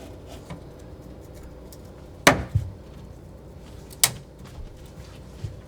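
Two sharp knocks about two seconds apart, the first followed at once by a softer one.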